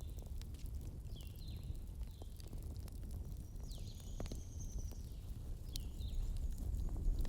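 Campfire crackling, with scattered sharp pops over a steady low rumble. Short high chirping calls, most likely birds or other night creatures, come several times, and one longer, sliding call comes about halfway through.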